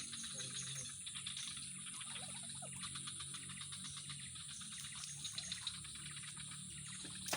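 Insect chorus of rapid, dense chirping crickets with a steady high buzz, over a low constant hum.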